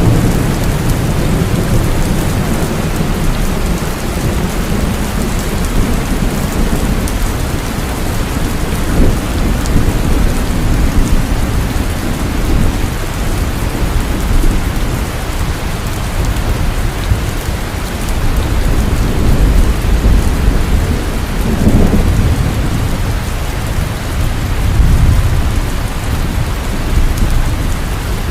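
Heavy rain falling steadily in a thunderstorm, with low rolling thunder swelling and fading underneath, strongest near the start and again about three-quarters of the way through.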